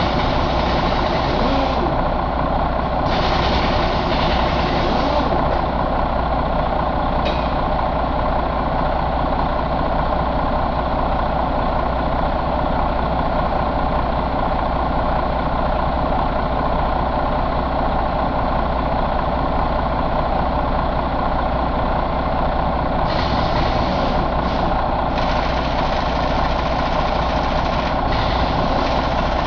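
Detroit DD13 inline-six diesel engine idling steadily. A higher hiss comes and goes near the start and again near the end.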